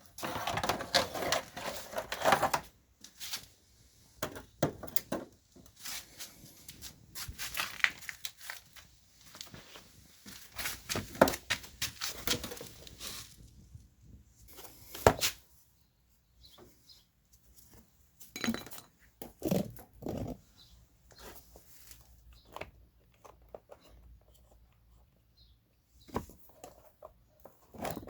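Irregular clanks, knocks and rustling of tools and parts being handled during repair work on a scooter, with short pauses between bursts and a sharp knock about fifteen seconds in.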